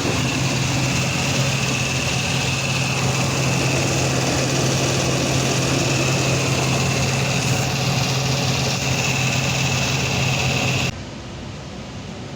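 Toyota Land Cruiser engine idling steadily, with a thin high whine above it. It cuts off abruptly near the end.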